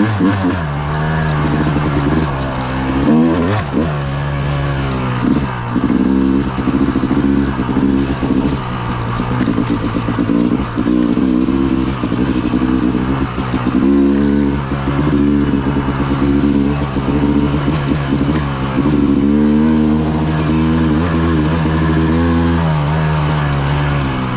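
Yamaha 250 two-stroke dirt bike engine under way, its pitch climbing and dropping back again and again as the throttle is worked.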